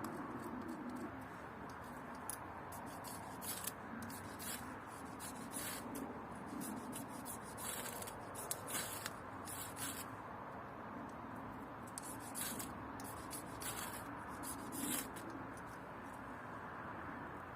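Short, irregular scraping strokes, a dozen or so, over a steady low background hiss: hand work on wood while firewood is being prepared.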